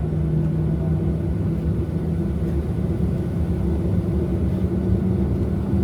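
Steady low rumble and hum inside the cabin of a Boeing 737-700 on the ground before takeoff, the aircraft's running systems droning evenly with no change.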